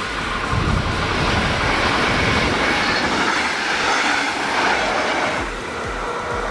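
Double-deck push-pull regional train passing at speed, control car leading and electric locomotive at the rear: a rush of wheel and rail noise that swells as the coaches go by and eases off near the end.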